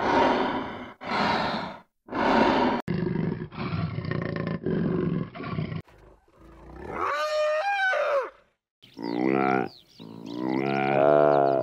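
Wild animal roars and calls spliced together from separate recordings: three rough, noisy roars of about a second each, then further pitched calls that rise and fall, each cut off abruptly.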